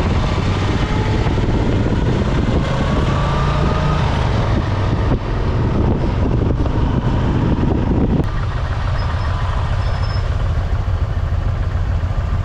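Motorcycle riding on the road: a steady engine rumble with wind and road noise, the engine's pitch rising a little in the first few seconds as it accelerates. About two-thirds of the way through, the middle of the noise drops away abruptly.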